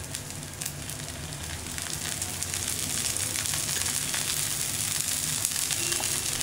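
Oats dosa batter sizzling and frying on a hot dosa tawa in freshly poured oil, a steady hiss that grows louder over the first couple of seconds.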